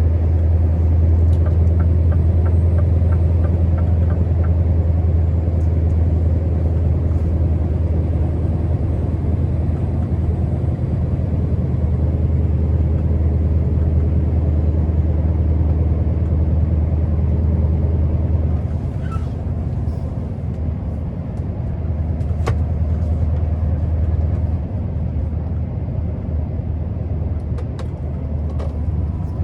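Scania R650 truck's V8 diesel running steadily under way with a deep, even drone. About two-thirds through it drops a little in level, as if the throttle is eased, and a few light clicks come through.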